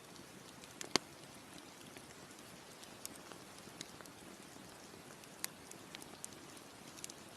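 Campfire crackling: scattered sharp pops and snaps of burning wood over a soft steady hiss. The loudest pop comes about a second in.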